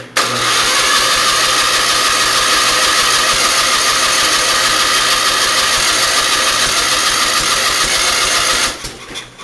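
Twin-cylinder Onan engine being cranked over by its starter for about eight and a half seconds without catching, then stopping. It is a no-start: the engine turns and draws fuel but does not fire.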